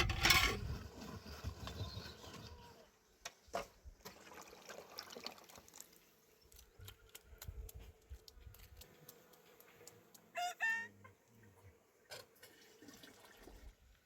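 Domestic chickens calling, with one short, high, pitched call about ten seconds in. A rush of noise fades away over the first couple of seconds, and there are a couple of sharp knocks.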